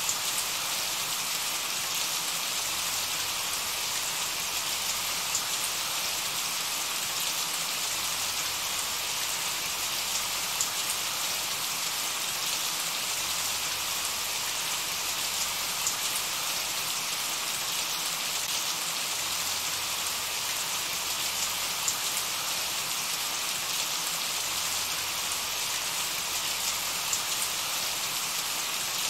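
Steady rain falling: a constant, even hiss with small, scattered drop ticks.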